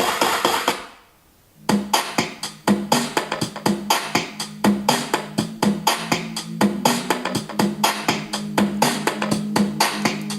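Music playing loudly from a Bluedio BS-3 Hurricane Bluetooth speaker. One track ends about a second in, and after a brief near-silent gap a new track with guitar and a steady beat starts.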